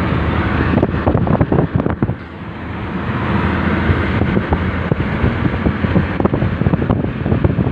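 Wind buffeting the microphone: a loud, steady rumble broken by irregular crackles, with a brief lull about two seconds in.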